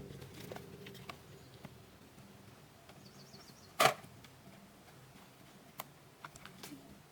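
Scattered light clicks, with one sharp knock a little before the middle.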